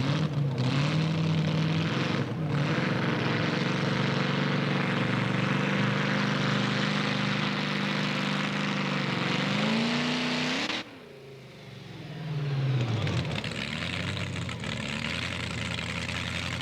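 Competition pulling tractor's engine running flat out under load with a heavy, rough noise over a steady pitch; the pitch climbs shortly before the sound cuts off about two-thirds through. A second engine run then swells in, its pitch drops, and it holds steady.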